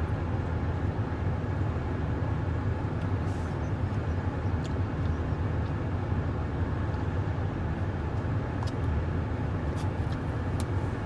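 Steady low rumble of a pickup truck idling, heard from inside the cab, with a few faint small clicks over it.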